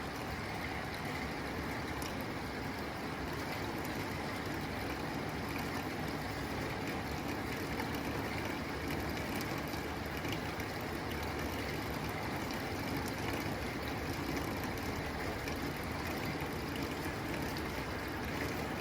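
Steady rain falling on a tin roof: an even, continuous patter with scattered sharper drop ticks.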